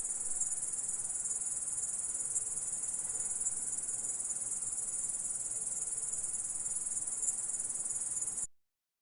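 Grasshopper stridulating: a steady, high-pitched continuous trill that cuts off suddenly near the end.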